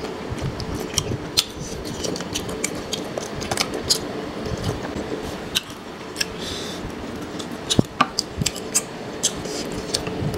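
Close-miked eating: wet chewing and mouth sounds as fried fish balls are eaten, with many short, irregular clicks of a metal fork against the food and the tray.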